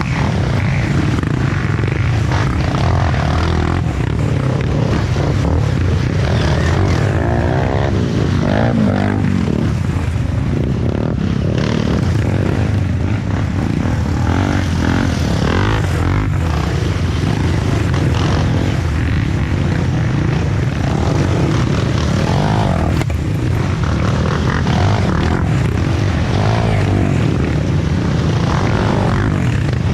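Off-road trail motorcycle engines running and revving, their pitch rising and falling repeatedly over a steady low drone.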